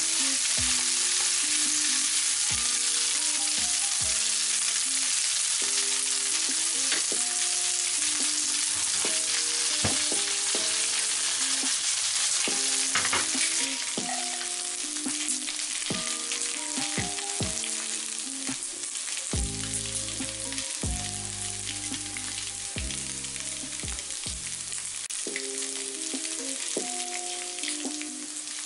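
Leftover spaghetti in tomato sauce sizzling as it fries in oil and chilli in a nonstick frying pan, being fried until a crust forms. It is turned with a wooden spatula, which gives light scrapes and clicks. The sizzling gets somewhat quieter about halfway through.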